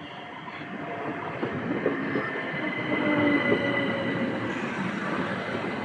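Southern class 377 Electrostar electric multiple unit rolling into the platform and slowing, its wheels rumbling on the rails. The sound grows louder during the first three seconds, with a steady high-pitched squeal over the rumble.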